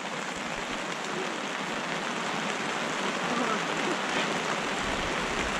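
Steady rain shower falling on a pop-up canopy overhead and the ground around it, an even hissing patter that grows a little heavier.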